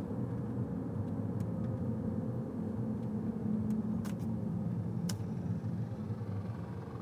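A car driving slowly, its steady engine and road rumble heard from inside the cabin, with a couple of faint ticks about two-thirds of the way through.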